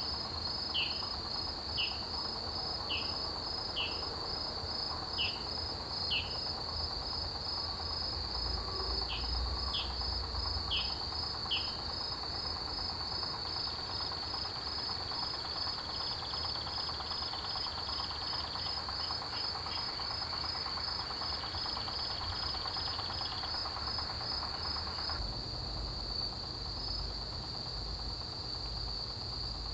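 Autumn grass insects, crickets among them, singing in a chorus: a steady high trill goes on throughout. For about the first twelve seconds another insect adds short chirps, roughly one a second, then stops.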